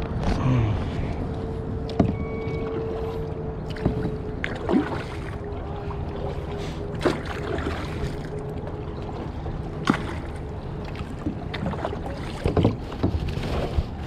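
Kayak paddling: a paddle dipping and splashing, with several sharp knocks spread through, over steady water noise.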